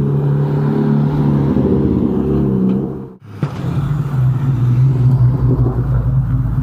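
Car engines running at low, steady revs as cars drive slowly into a car meet. The sound cuts out abruptly for a moment about three seconds in, then another engine note carries on.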